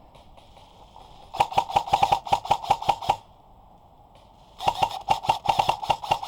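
Airsoft gun firing two rapid full-auto bursts, close by, each about a second and a half to two seconds long, with a gap of about a second and a half between them.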